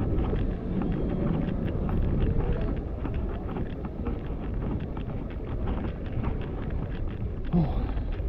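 Wind buffeting the microphone outdoors, a steady low rumble, with a short falling sound about seven and a half seconds in.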